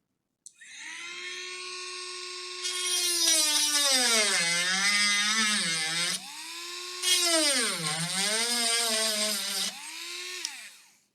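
A small high-speed electric motor runs with a whining tone that sags in pitch and recovers twice, as if briefly loaded, with a hiss over it during the louder stretches.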